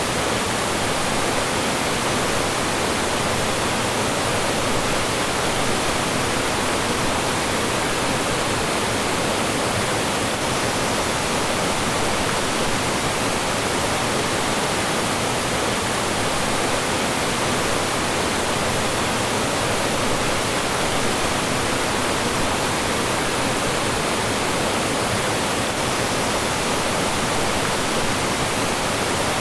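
Mountain stream rushing and splashing over rocks, a steady full rush of flowing and falling water.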